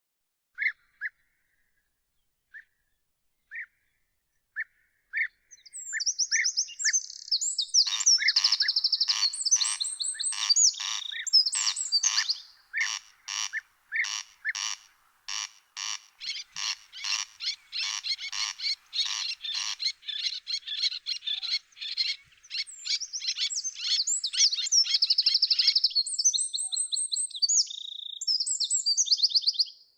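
Songbirds singing: a few short chirps at first, then from about six seconds a dense song of high trills and a long, steady series of loud repeated notes, about two a second.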